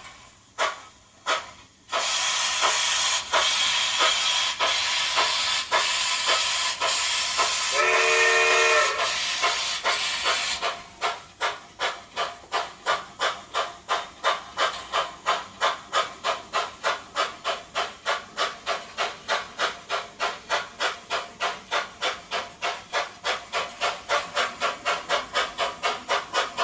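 Model steam locomotive's sound unit: a few chuffs, then a steady hiss of steam for about eight seconds with a short whistle blast near its end, then steady chuffing at about three beats a second, slowly quickening as the engine gets under way.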